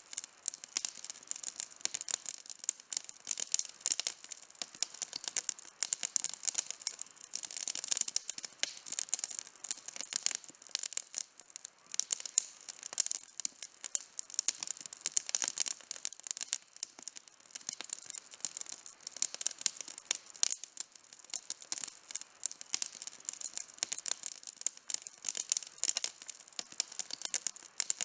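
Wood campfire burning with dense, irregular crackling and small pops, over a faint hiss.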